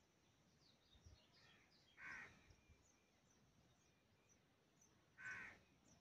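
Two short bird calls, about three seconds apart, each lasting under half a second, with faint high chirps a little before the first.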